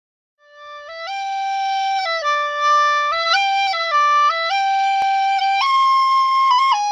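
Solo melody on a flute-like wind instrument, one note at a time, moving up and down in steps; it fades in about half a second in.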